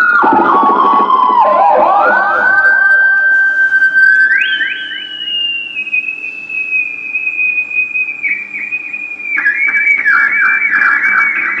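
Homemade theremin played through a guitar amplifier: one whistling tone that slides down and back up in the first two seconds, leaps higher about four and a half seconds in and sinks slowly, then drops again about nine and a half seconds in.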